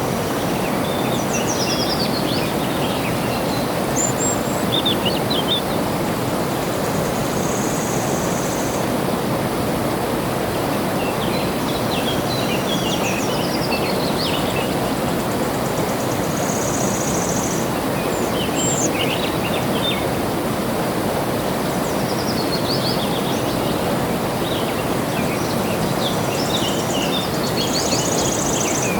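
Steady rush of flowing water, with songbirds chirping over it in repeated bursts of quick high notes every few seconds, some of them a buzzy trill.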